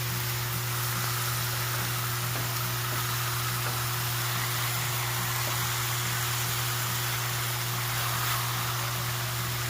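Steaks and pork chops sizzling steadily on a propane griddle's flat-top, an even hiss with a constant low hum beneath it.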